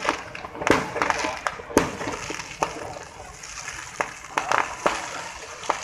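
Fireworks going off: a dozen or so sharp bangs and crackles at irregular intervals, the loudest in the first two seconds.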